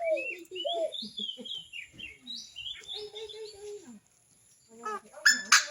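Birds singing: repeated short, swooping high whistled phrases over lower, mellow calls, with a brief lull about four seconds in. Near the end a loud, harsh call breaks in.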